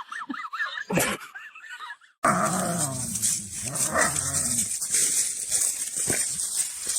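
Dog vocalising: high, quickly wavering whines for about the first second, then, after an abrupt break about two seconds in, lower and rougher dog sounds over a steady hiss.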